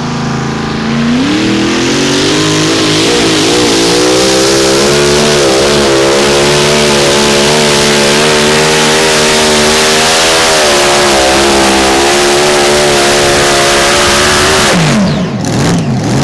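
A modified mini pulling tractor's engine at full throttle during a pull. The revs climb sharply about a second in and hold high with the pitch wavering, then drop suddenly near the end as the throttle comes off.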